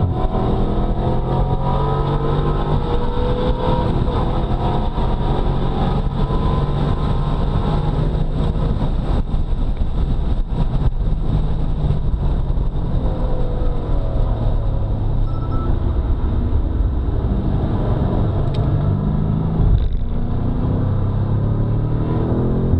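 2018 BMW F90 M5's twin-turbo V8 under hard acceleration, its pitch climbing through the revs in the first few seconds and again near the end, with steady engine noise in between.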